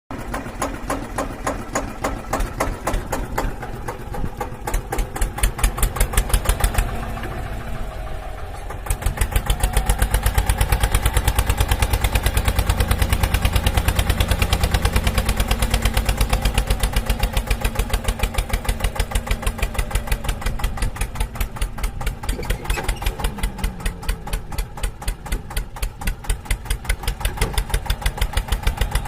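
Diesel tractor engine running with a steady chugging beat. It dips briefly, then comes back louder and faster about nine seconds in, as if under load.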